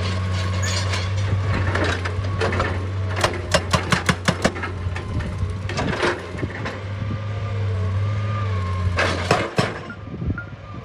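Excavator's diesel engine running steadily while rock is worked, with a quick run of sharp knocks and clatter of stone about three seconds in and another louder crunch near the end, after which the engine note drops off.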